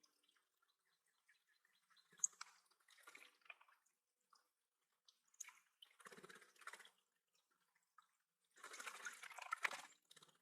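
Faint splashing water in three short bursts of a second or two each, with a few sharp drips.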